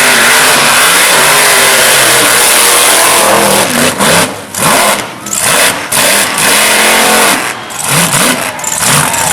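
Mega mud truck's high-horsepower engine running loud at full throttle, then from about three and a half seconds in, the throttle is repeatedly let off and jabbed again in short bursts of revving.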